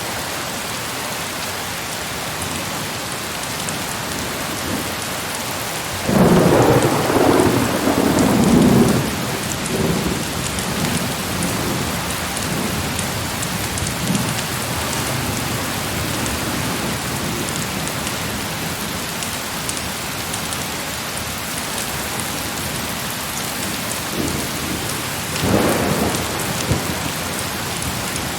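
Steady heavy rain with two rolls of thunder: a loud one that breaks suddenly about six seconds in and rumbles for a few seconds, and a fainter one near the end.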